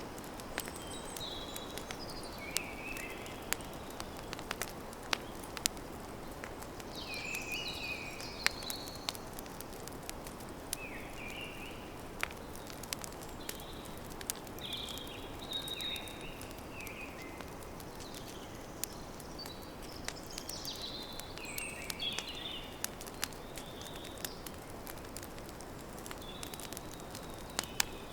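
Campfire crackling, with frequent sharp pops and snaps over a steady low hiss, while songbirds sing short chirping phrases in the background.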